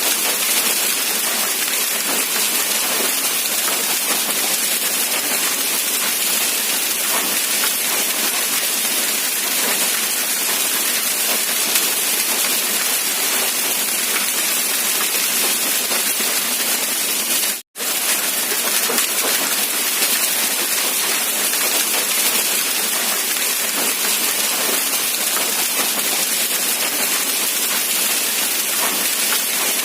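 Steady rain falling, an even hiss. It cuts out completely for a split second about 18 seconds in, then resumes unchanged.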